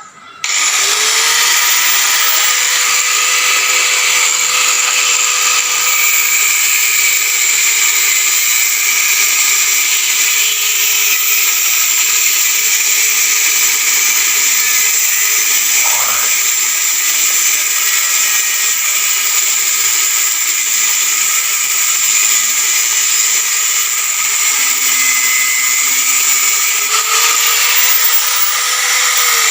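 Abrasive cutting wheel on a power saw cutting through steel reinforcing bar: a loud, steady, hissing grind. The motor spins up about half a second in and starts to wind down at the end.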